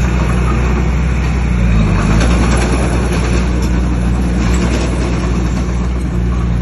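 Bulldozer's diesel engine running steadily under load, its pitch dipping briefly and recovering about two seconds in.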